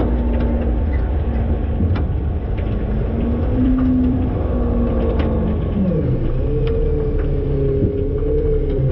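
Front-load garbage truck's machinery running with a steady low rumble and hum. About six seconds in, the hum drops in pitch and a higher whine takes over, with a few light knocks along the way.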